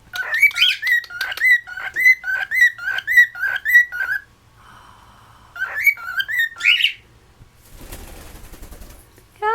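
Pet cockatiel whistling a run of short repeated notes, about three a second, for some four seconds, then a few more chirps; near the end a brief dry rattling noise.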